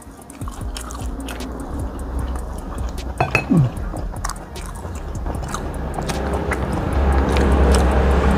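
A person chewing goat meat close to the microphone: many short, wet mouth clicks. A steady noise grows louder over the last couple of seconds.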